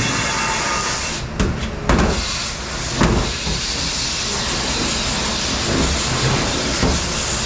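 Steady spraying hiss at a commercial dishwashing station, with a few sharp clanks of dishware about a second, two seconds and three seconds in.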